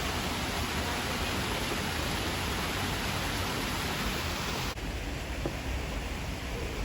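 Steady rushing hiss of a waterfall, turning abruptly duller and softer in the highs about five seconds in.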